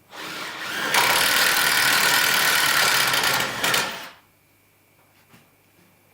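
Power drill running at speed for about four seconds, picking up over the first second and then stopping abruptly.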